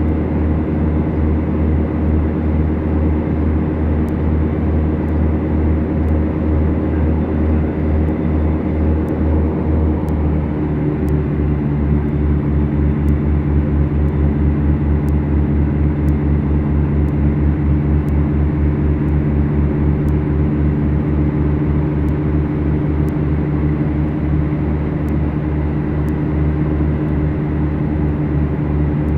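Beechcraft Duchess twin engines, a pair of four-cylinder Lycoming O-360s, running steadily with their propellers in a loud continuous drone. About ten seconds in, the engine note shifts and takes on a regular throb.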